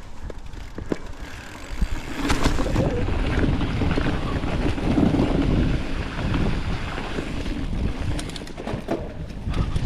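Wind buffeting the microphone over the rattle and tyre noise of a Specialized Status 160 mountain bike rolling down a dirt trail, getting louder about two seconds in as it picks up speed, with scattered sharp clicks from the bike over rough ground.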